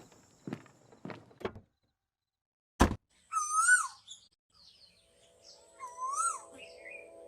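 A few soft clicks, then one sharp thunk, followed by two bird-like chirping calls that rise and fall in pitch; steady music comes in after the first call.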